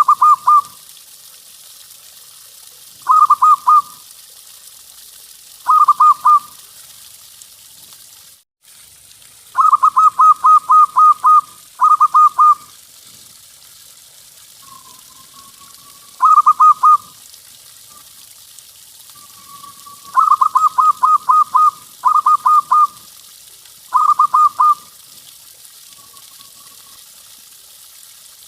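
A zebra dove (perkutut) cooing. Its phrases are quick runs of bright, evenly pulsed notes, some short and some long, and they repeat every few seconds with softer single coos between them, over a light background hiss.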